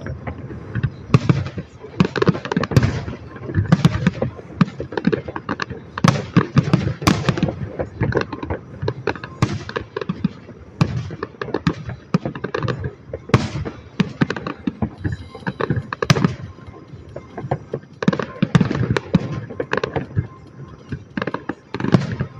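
Fireworks going off: many sharp cracks and bangs in dense volleys, with brief quieter lulls between them.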